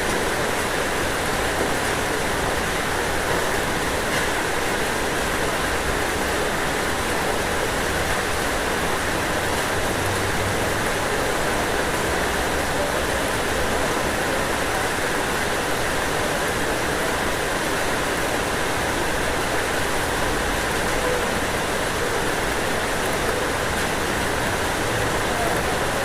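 Steady heavy rain falling on a roof, an even unbroken hiss of drops.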